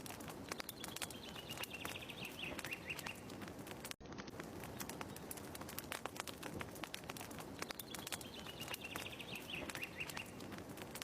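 Fire crackling with a steady scatter of small pops, with a short bird phrase, a falling run of chirps, heard twice about seven seconds apart as the ambience loop repeats.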